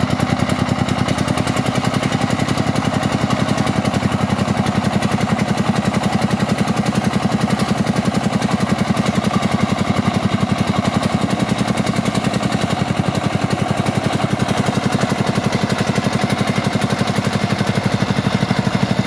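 Single-cylinder diesel engine of a công nông, a two-wheel-tractor farm truck, running steadily with an even, rapid chug.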